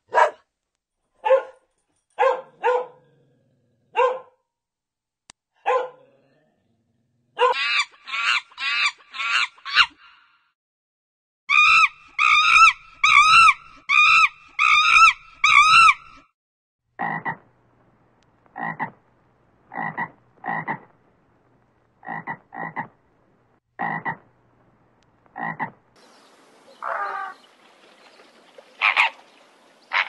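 A run of short animal calls in several different sets. First come brief calls a second or so apart, then quick high calls repeated several times a second, then short calls spaced about a second apart.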